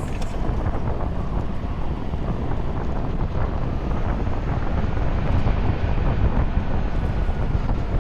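Steady wind buffeting the microphone of a moving 96-volt electric motorcycle, a dense low rumble with no engine sound.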